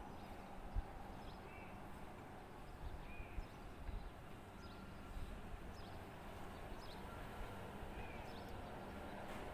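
Birds chirping: scattered short, high calls every second or so over a steady outdoor background, with a few soft low thumps.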